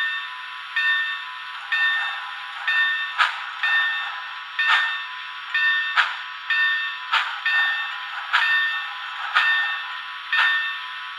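Bachmann N scale EM-1 steam locomotive's Soundtraxx economy sound decoder playing through the model's tiny speaker: a bell ringing about once a second over short steam exhaust chuffs, thin and tinny with no low end.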